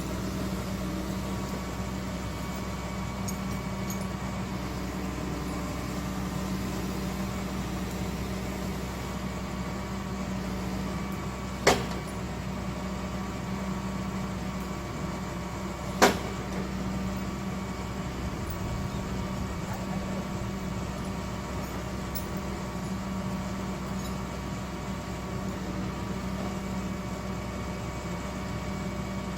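Excavator's diesel engine running steadily, with two sharp knocks about four seconds apart.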